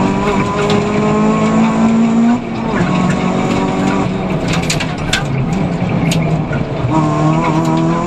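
Peugeot 206 F2000 rally car's engine at racing pace, heard inside the cabin. The revs climb for about two seconds, drop abruptly, run lower and uneven with a few sharp clicks and knocks, then climb again near the end.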